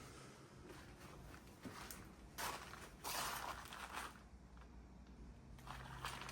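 Faint scuffing and rustling handling noises, with the loudest short scrapes about two and a half and three seconds in and another near the end.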